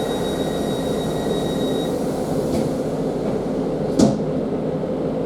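Interior of a Class 150 Sprinter diesel multiple unit on the move: a steady rumble from the underfloor diesel engine and wheels on rail. A single sharp knock sounds about four seconds in.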